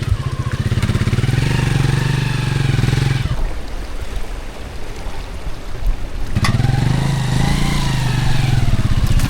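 Honda XR150L's single-cylinder four-stroke engine running under way. About three seconds in its note drops away for roughly three seconds, then picks up again with a click about six seconds in.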